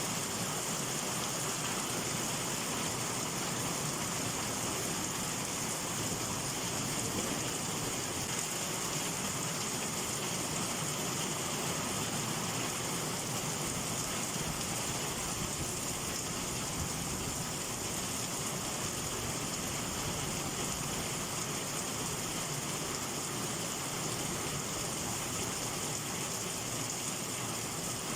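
Heavy summer downpour: rain falling steadily and evenly, with no thunder.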